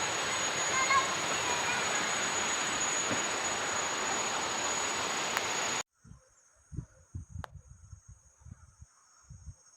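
Outdoor ambience: a steady rushing noise with a continuous high insect trill and a few brief chirps. About six seconds in it cuts off suddenly, leaving faint insects and a few low thuds.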